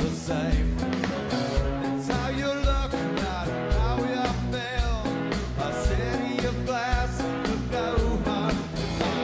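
Live rock band playing: drums keep a steady beat under electric guitars and bass, with singing.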